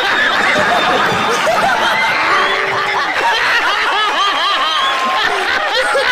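Many voices laughing and chuckling at once, overlapping steadily: a laugh-track style crowd laughter sound effect.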